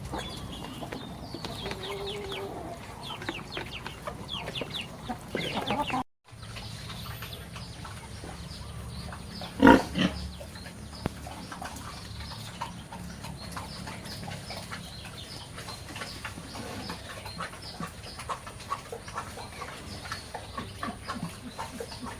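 Farmyard chickens clucking and peeping in many short chirps, with one loud, short animal call about ten seconds in. The sound drops out for a moment about six seconds in.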